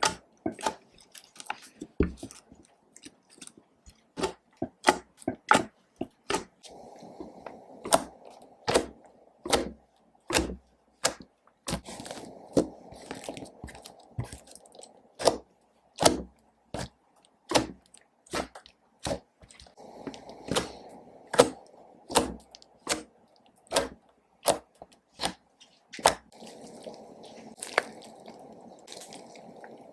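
Slime being squeezed, stretched and kneaded by hand, with irregular sharp wet clicks and pops as air pockets burst.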